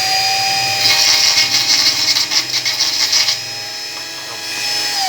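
Small handheld electric power tool running at a steady high whine, cutting into a plastic motorbike body-panel mounting tab with a rough, choppy rasp for about two seconds. It is then switched off and winds down near the end.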